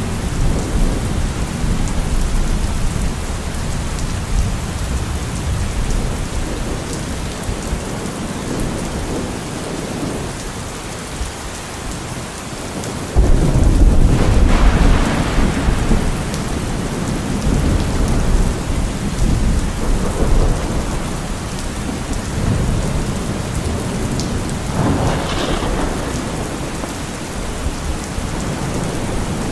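Steady heavy rain with thunder rumbling. About halfway through a loud thunderclap breaks in suddenly and rumbles for a few seconds, and a weaker roll of thunder comes about three-quarters of the way through.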